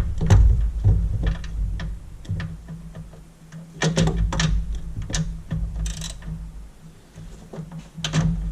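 Irregular clicks, knocks and clatter of hand tools and parts being handled in a car's engine bay, over a low rumble.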